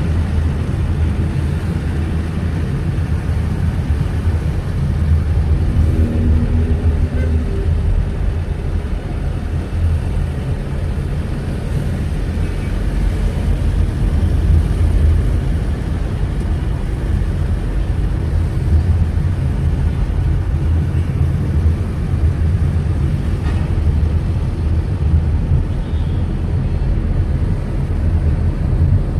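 Steady road noise of a car driving through city traffic: a continuous low rumble of engine and tyres. About six seconds in, a brief pitched sound rises above it for a second or so.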